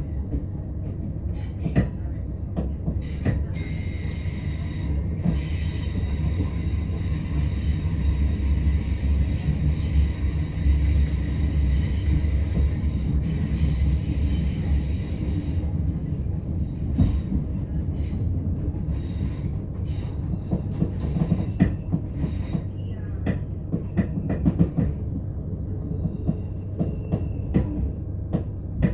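c2c electric passenger train running and slowing as it approaches its station: a steady low rumble of the wheels on the track. From about 3 s to 16 s a high, steady squeal rings out over it. After that come irregular clicks and knocks from the rail joints and the carriage.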